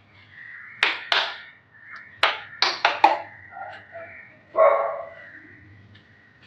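A dog barks once, a little past the middle, after a run of sharp clicks and knocks in quick succession.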